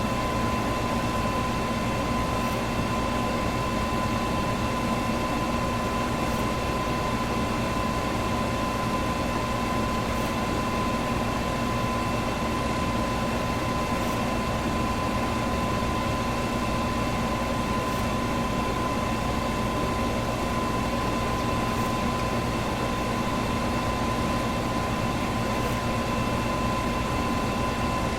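Electric fan running steadily: an even rush of air with a constant motor hum.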